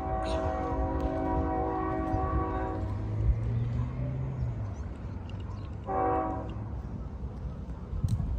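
Locomotive air horn sounding for a grade crossing: one long chord of about three seconds, then a short blast about six seconds in. A steady low rumble runs underneath.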